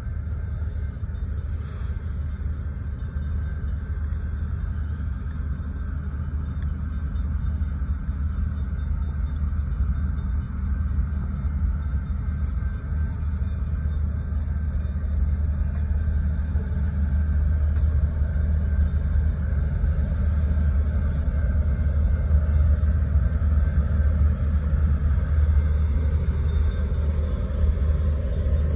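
Freight train rolling past a road crossing: a steady low rumble that slowly grows louder.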